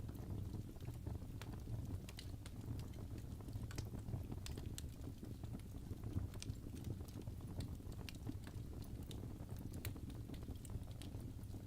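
Fireplace crackling: irregular sharp pops and snaps, several a second, over a steady low rumble of the burning fire.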